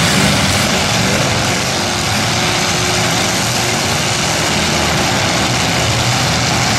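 Engines of several demolition derby cars running hard together, a loud steady din with no distinct crash standing out.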